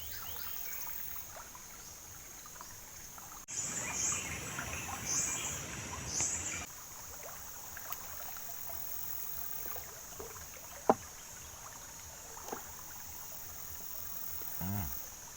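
Riverside ambience: insects droning steadily at a high pitch over a faint trickle of water. From about three and a half to nearly seven seconds a louder rushing noise with high chirps comes in and cuts off abruptly, and a single sharp click sounds about eleven seconds in.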